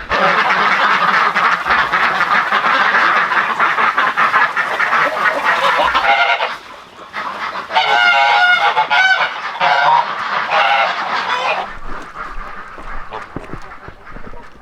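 A flock of geese honking, many calls overlapping at first, then a few separate loud honks between about six and eleven seconds in, thinning out near the end.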